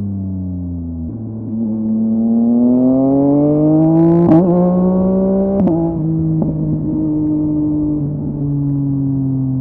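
Yamaha MT-09's three-cylinder engine through a LeoVince LV Race exhaust. The note falls as the bike eases off, then rises steadily under acceleration with two sharp cracks near the middle. At the second crack the pitch steps down for an upshift, and the engine then holds a steady cruising note.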